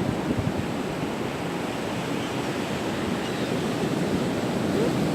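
Steady wash of ocean surf breaking on the beach, with wind on the microphone.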